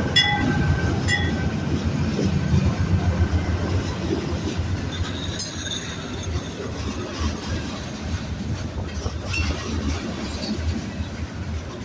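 Slow-moving train's cars rolling past at a level crossing, a steady low rumble with the clickety-clack of wheels over the rail joints. A crossing signal bell dings a couple of times at the start.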